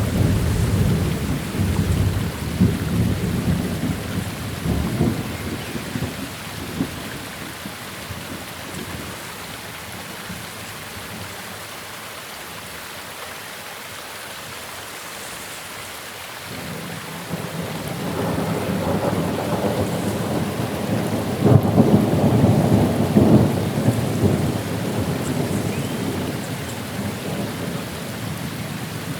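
Steady rain with two rolls of thunder. The first rumble breaks at the very start and fades over several seconds. The second builds from about halfway, is loudest a few seconds later, then rolls away.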